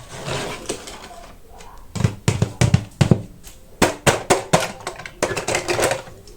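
A rapid, irregular run of sharp clicks and knocks, starting about two seconds in, some with a dull thud beneath them.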